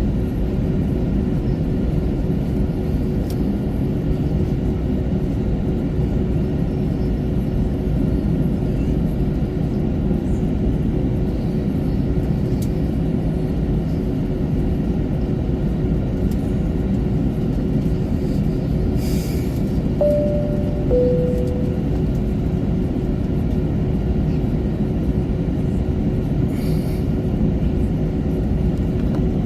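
Steady low rumble and hum inside an Airbus A321 cabin. About two-thirds of the way through, a two-tone cabin chime sounds, high then lower.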